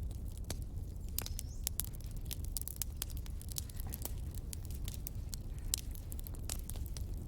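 Wood fire crackling: a steady low rumble with many irregular sharp pops and snaps.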